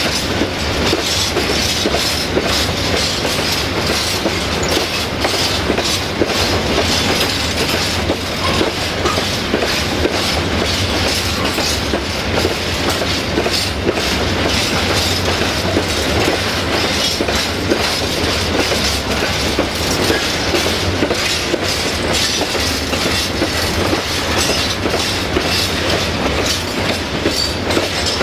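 A freight train of tank wagons rolling steadily past close by: a continuous rumble of steel wheels on rail with clattering over the rail joints.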